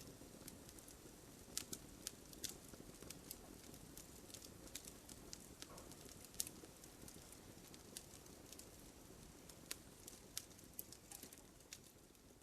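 Wood fire burning quietly, with a low steady rumble and irregular sharp crackles and pops from the burning wood, a few a second.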